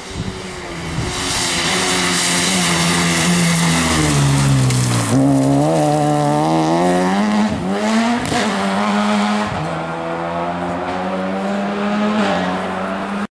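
A rally car's engine at high revs. The pitch drops as it slows about four seconds in, climbs again, breaks sharply near eight seconds at a gear change, then holds steady, with hissing tyre noise early on.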